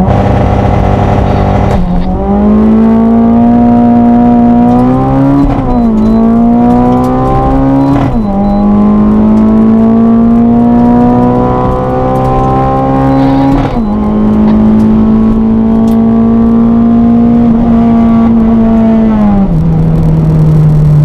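Honda Jazz engine heard from inside the cabin, accelerating hard down a drag strip. It revs rising in pitch, drops back at each upshift (about three times), and eases off near the end of the run.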